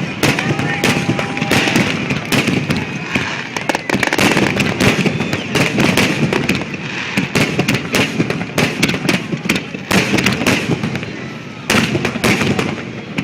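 Fireworks display: a dense barrage of shell bursts, many cracks and booms a second over a steady rumble, thinning briefly about eleven seconds in before picking up again.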